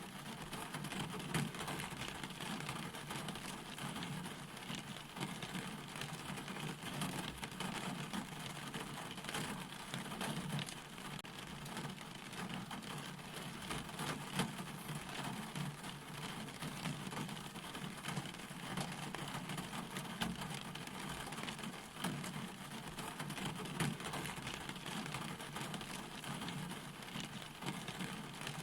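Steady rain falling, with many small drop strikes and a low steady rumble underneath.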